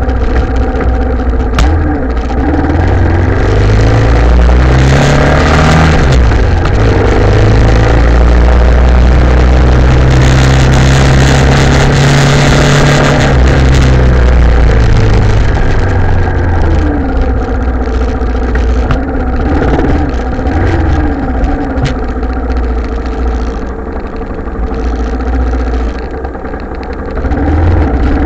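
Italika TC250 single-cylinder motorcycle engine running on the move. Its pitch rises and falls several times with throttle and gear changes, with a rush of wind noise where it speeds up.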